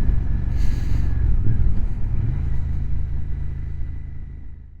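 Motorcycle engine running steadily under way, with wind rumble on the microphone; the sound fades out near the end.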